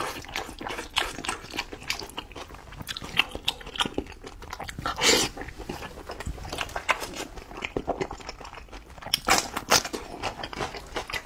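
Close-miked wet chewing and lip-smacking of a person eating spiced sheep's head meat, with many sharp mouth clicks and louder noisy bursts about five seconds in and again near the end.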